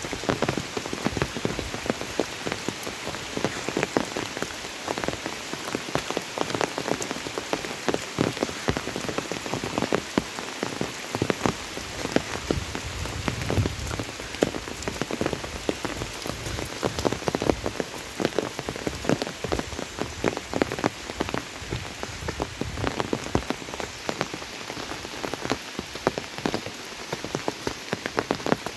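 Steady monsoon rain, with many drops landing close by as a dense spatter of sharp ticks.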